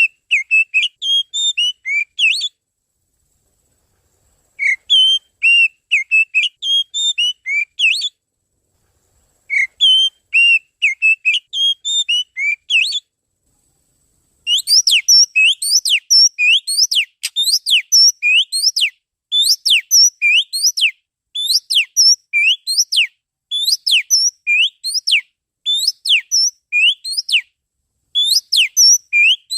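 Oriental magpie-robin (kacer) song played as a lure call: three short phrases of varied whistled notes with pauses between them, then, from about halfway, a long run of rapid downward-sweeping whistles in quick series.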